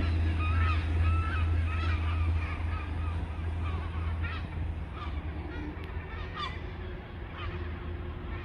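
A flock of birds giving short, repeated honking calls, several a second at first and thinning out after about five seconds. Underneath runs a steady deep rumble, the loudest thing throughout, with a faint steady hum joining about halfway through.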